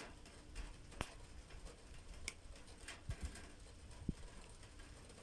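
Rain during a thunderstorm: scattered drops tapping irregularly and sharply on a hard surface, the loudest about a second in, over a faint steady low background.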